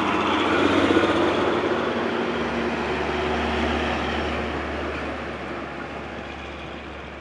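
Heavy truck driving past with a rumbling engine and tyre noise, loudest about a second in and then fading as it moves away.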